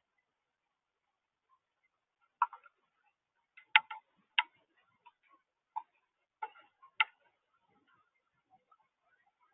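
Rain drips tapping on a hard surface: about eight sharp, irregularly spaced ticks over a few seconds, with near silence between them.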